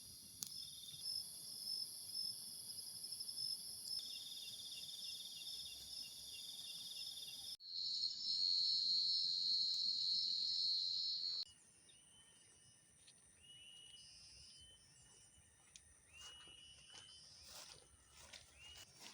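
Night insects chirping in a steady high chorus, with a pulsing trill in it. The chorus jumps abruptly to a louder, higher one about halfway through, then drops to fainter, separate chirps. Scattered light clicks come near the end.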